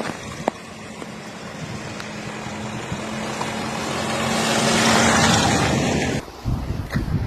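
A motor vehicle passing on a road, its noise building to a peak about five seconds in over a steady low hum. The sound cuts off suddenly near the end, giving way to wind buffeting the microphone.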